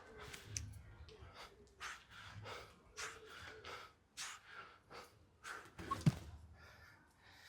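A man breathing hard in quick, forceful puffs while exercising. There is one short thump about six seconds in.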